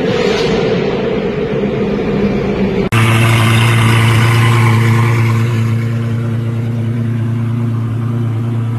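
Sports car engine running loud and rough, then a sudden cut about three seconds in to another car engine held at a steady, even pitch.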